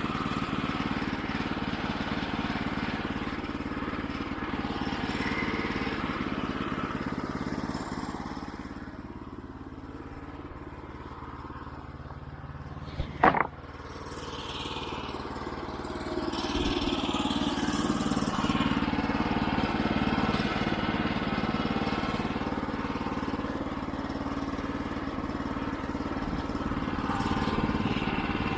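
The sawmill's 9.5 hp engine running steadily, easing off somewhat in the middle, with a single sharp knock about 13 seconds in; the engine is louder again from about 16 seconds on.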